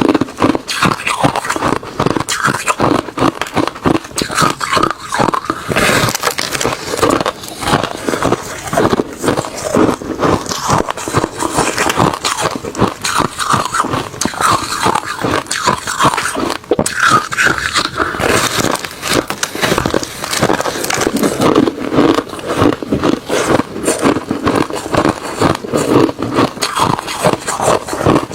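A person biting and chewing refrozen crushed ice mixed with shaved ice close to the microphone. The crunches come rapidly and continuously throughout.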